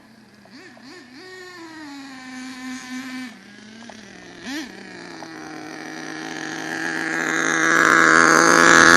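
Nitro engine of an HPI Savage RC truck running under carburettor tuning. Its pitch wavers and then falls over the first few seconds, with one short rev about four and a half seconds in, and the engine then grows steadily louder to the end.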